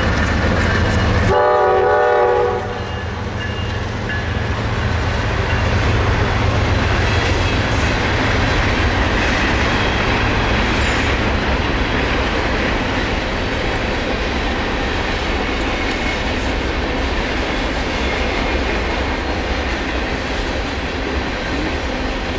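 Freight train of covered hopper cars rolling past: steady rumble and clatter of steel wheels on the rails. A short multi-tone locomotive horn blast sounds about a second in.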